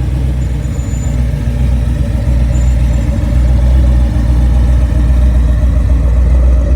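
Car engine running with a steady, deep, low exhaust rumble, getting louder over the first few seconds and then holding.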